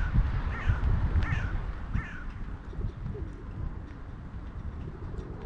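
Crow cawing in a run of repeated calls, about one every two-thirds of a second, stopping about two seconds in, over a steady low rumble.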